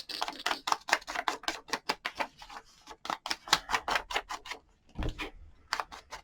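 Rapid, irregular small clicks and taps from hand crafting work on paper at a table, several a second, with a short pause near the end.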